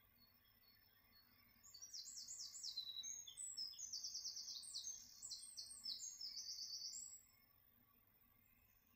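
A small songbird singing one fast, high, trilling phrase about two seconds in. The phrase runs for roughly five seconds of rapid repeated notes, with faint bird calls farther off around it.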